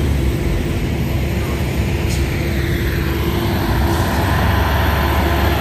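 Heavy truck's diesel engine labouring uphill under load: a loud, steady engine drone that swells a little about four seconds in.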